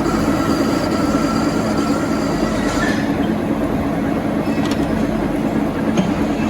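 Metal lathe running steadily with a low hum. A thin whine over it stops about three seconds in, and a couple of light clicks follow.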